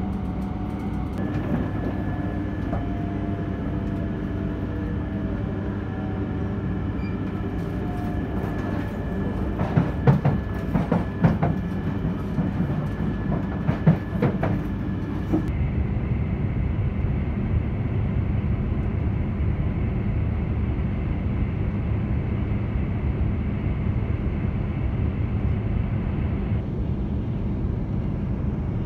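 Cabin sound of an E3 series 0 shinkansen running: a steady rumble with faint whines that slowly fall in pitch, and a cluster of sharp clacks and knocks from the wheels over points about ten seconds in. About halfway the sound changes abruptly to a steadier, louder running rumble at speed.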